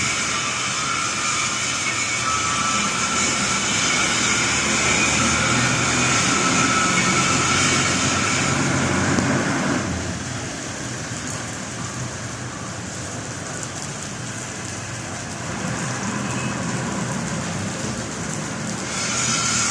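Steady hiss of rain mixed with street and traffic noise. It drops in level about ten seconds in and rises again near the end.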